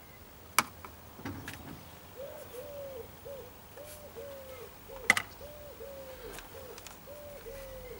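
A bird calling in the background: a steady run of short, evenly spaced notes of about the same pitch, starting about two seconds in. Two sharp clicks, one about half a second in and a louder one about five seconds in, stand out above it.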